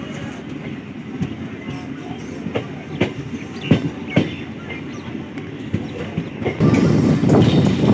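Train running on the track: a steady rumble with a few sharp clicks of wheels over rail joints, growing suddenly much louder near the end as it comes close.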